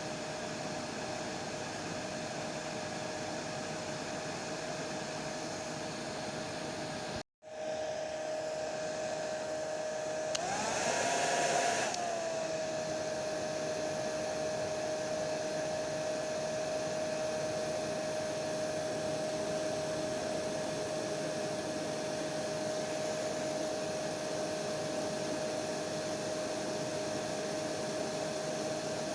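Hair dryer running steadily, a hiss of blown air with a steady motor whine. About seven seconds in the sound cuts out for an instant; a few seconds later it briefly rises in pitch and loudness for under two seconds, then settles back to the steady run.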